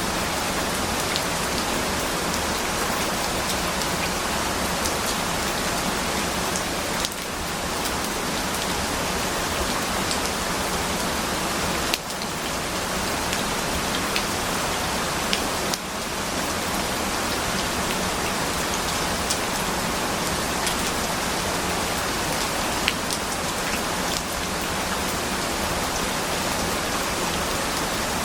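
Steady rain: an even hiss of rainfall with scattered single drop ticks.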